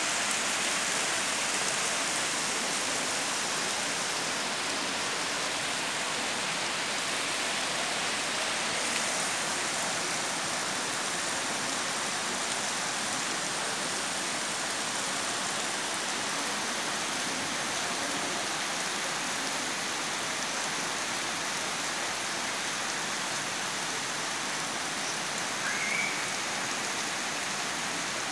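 Torrential monsoon rain pouring down steadily, an even hiss of rain hitting surfaces. A brief faint chirp sounds near the end.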